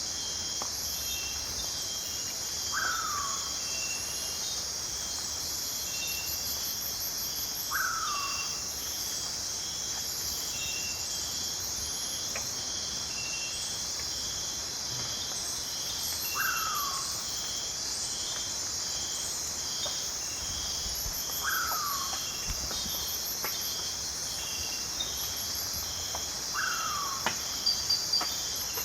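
Night chorus of rainforest insects: a steady high-pitched drone with trains of repeating chirps. A short falling call cuts through it five times, about every five seconds, and a few sharp clicks come near the end.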